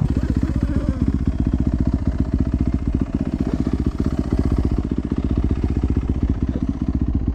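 Dirt bike engine running steadily at low revs, with a fast, even putter.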